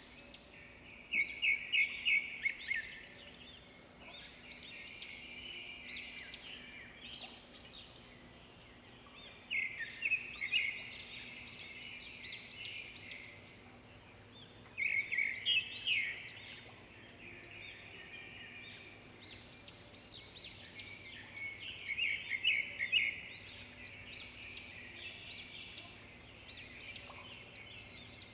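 Songbird singing: bursts of rapid, high chirping notes with short rising sweeps, repeated about every six seconds, with fainter chirps between the bursts.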